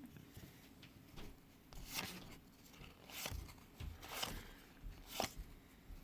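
Faint rustles and flicks of trading cards and a foil card-pack wrapper being handled, a handful of brief strokes spaced about a second apart.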